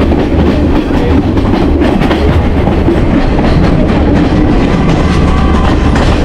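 Passenger train running, heard from aboard: a loud, steady rumble and rattle of the carriage on the rails.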